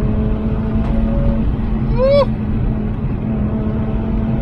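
Mazda RX-8's twin-rotor rotary engine with an aftermarket sports exhaust, running steadily while driving, heard from inside the cabin with a window partly open. A shout of "Woo!" about two seconds in.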